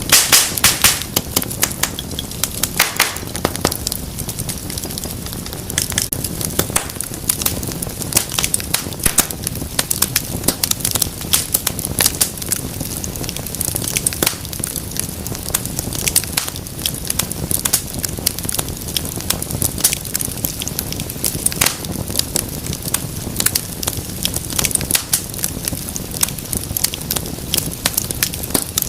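Wood fire burning with a steady low rumble and dense crackling and popping, busiest in the first few seconds.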